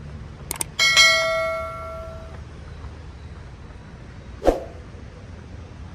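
A single bell-like metallic strike rings out and dies away over about a second and a half, just after two quick clicks. A short thump follows about four seconds in, over a steady low rumble.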